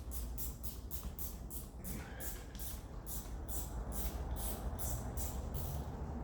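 Socket ratchet being worked back and forth on a small clamp bolt, a rapid run of short rasping clicks, about three to four strokes a second.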